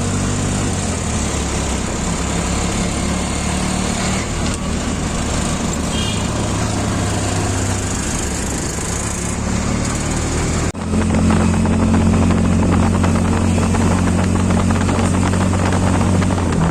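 An engine running steadily with a constant low hum and road noise over it. The sound breaks off sharply about two-thirds of the way through and comes back with the hum louder.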